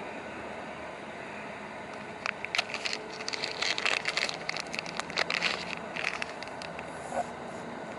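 Rustling and crackling for a few seconds, a rapid run of sharp clicks, over a steady background hiss.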